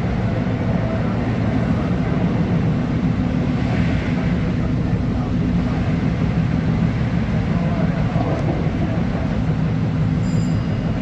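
Long Island Rail Road M3 electric multiple-unit train running along the track, a steady rumble with no breaks.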